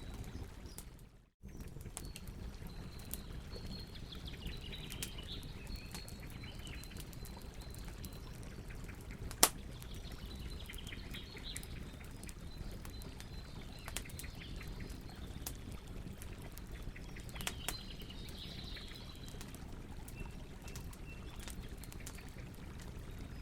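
Campfire burning with a steady low rush and scattered crackles and pops, one pop much louder than the rest about nine seconds in. The sound drops out for a moment about a second in.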